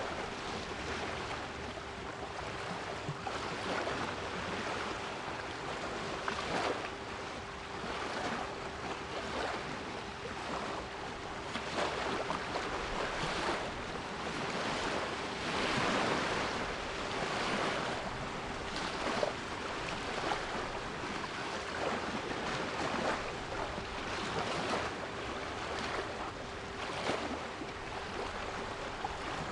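Sea waves washing onto a shore in repeated surges, with a steady 396 Hz pure tone sounding underneath.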